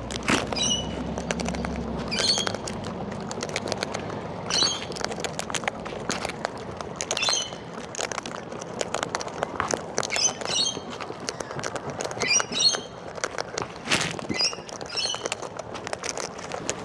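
Wild cockatoos eating seed: a short high chirping call every two or three seconds, over many small clicks and scrapes of beaks and feet at the seed.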